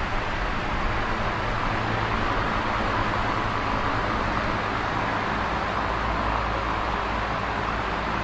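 Electric fan running steadily: an even rush of moving air, strongest in the middle range, over a faint low motor hum.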